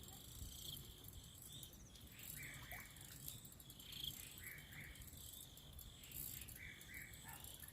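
Faint outdoor ambience of insects trilling, with soft chirps every second or two.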